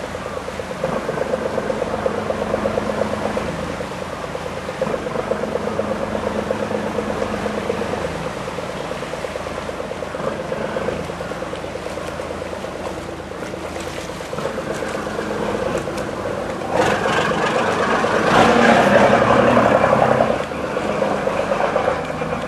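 An engine or motor running steadily with a fast, even pulse; it grows louder about three-quarters of the way through, then eases back.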